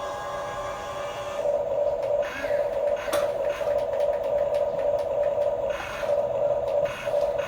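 Small electric gear motors of a remote-control construction toy whining in start-stop bursts as the controls are worked.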